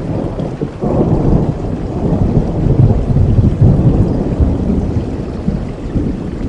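Thunder rumbling over steady rain, the rumble swelling about a second in and slowly fading.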